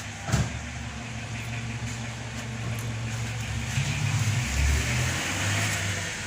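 An engine running steadily, a low hum that grows louder for a couple of seconds past the middle, with a single sharp knock about half a second in.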